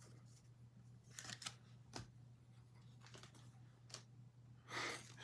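Faint handling of trading cards: a few soft clicks and short rustles of cards and packaging being moved, with a brief rustle near the end, over a low steady hum.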